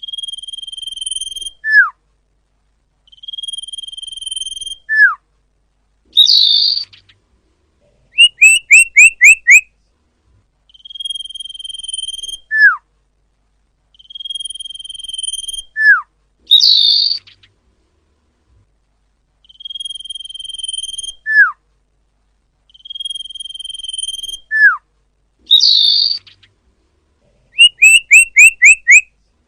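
Looped lure recording of cipoh (common iora) calls: a long, steady whistle ending in a short falling note, repeating every few seconds. Twice a run of five quick rising chirps, and three times a short raspy call.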